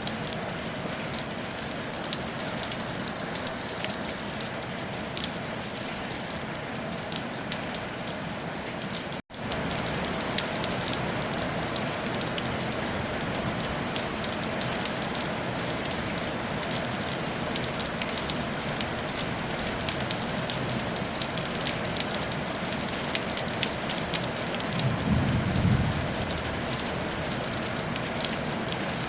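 Steady rain falling on a tile roof, with many small drop ticks over an even hiss. The sound cuts out for an instant about nine seconds in, and a brief low rumble rises near the end.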